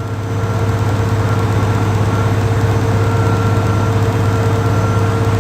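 Boat engine running steadily at an even low hum, with no change in speed.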